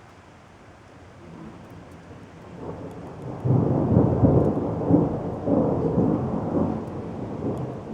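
Thunder during a night thunderstorm: a low rumble builds from about a second and a half in, jumps suddenly louder about three and a half seconds in, rolls on in several swells, then dies away near the end.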